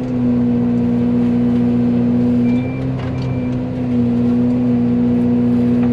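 Steady drone of an excavator running a Fecon forestry mulcher head at working speed, easing off briefly in the middle. Two short high beeps come about two and a half and three seconds in, the excavator's travel alarm, which sounds whenever the machine tracks.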